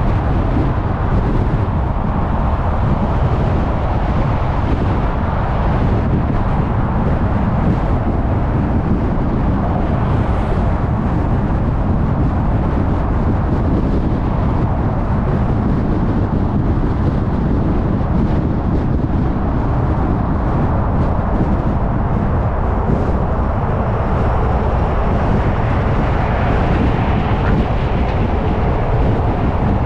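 Car driving at freeway speed: steady tyre and road noise with wind and engine rumble.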